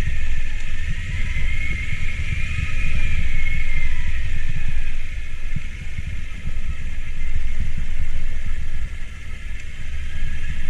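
A car creeping down a steep, rough dirt track in low gear: a heavy low rumble with rapid uneven jolts from the bumpy surface. A high wavering whine rides above it, fading about halfway through and returning near the end.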